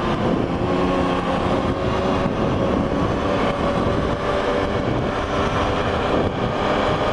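Old Ford Ranger pickup truck driving, a steady mix of engine and road noise heard from inside the cab.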